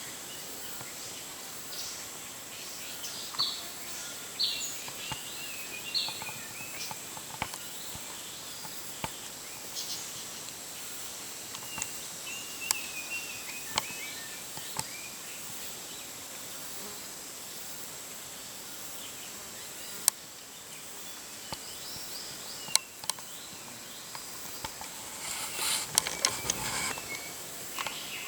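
Jungle ambience: a steady high-pitched insect drone with scattered short bird chirps and calls, a few sharp clicks, and a burst of rustling near the end.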